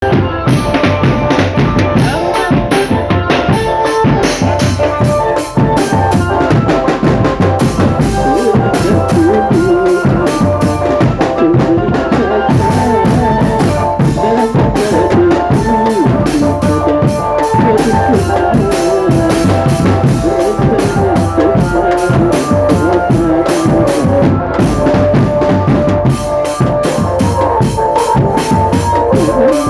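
Marching drum band playing a steady beat on snare and bass drums, with a held melody line sounding over the drumming.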